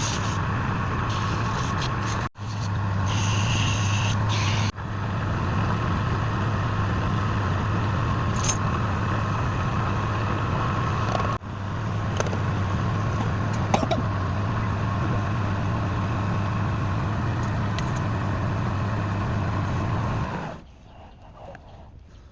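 Woodturning lathe motor running steadily with a low hum, with a rough rubbing hiss of tool or abrasive on the spinning wood. The sound cuts out briefly three times and stops near the end.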